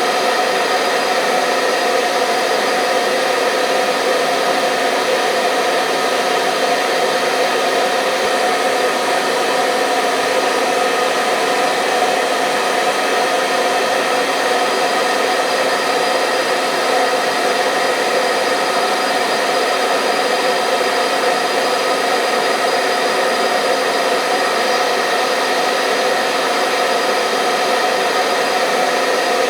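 Hair dryer running steadily, a constant whirring hiss with a fixed motor hum and no change in speed, used as white noise for lulling a baby to sleep.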